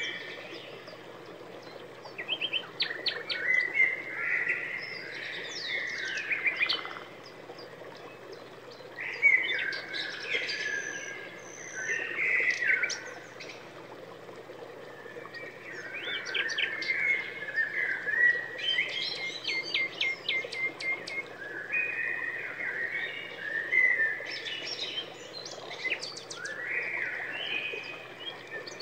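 Songbirds chirping and singing in phrases a few seconds long, made of quick trills, chirps and short glides, with brief pauses between phrases.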